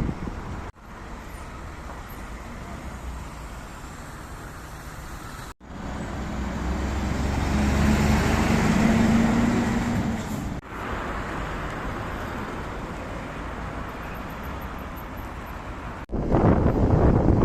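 City street traffic heard in short clips joined by abrupt cuts. Near the middle a motor vehicle passes close by, its engine hum growing louder for a few seconds and then falling away.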